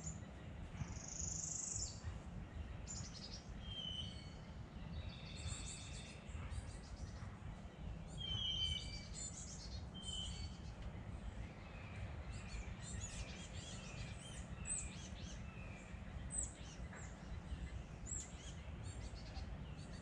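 Several wild birds singing and chirping, with many short high notes overlapping. About twelve seconds in, one bird gives a run of about six repeated lower whistled notes. A steady low rumble runs underneath.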